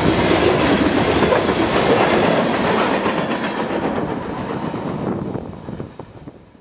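Freight cars of a passing train, steel wheels running on the rails, fading as the last cars move away and dying out just at the end.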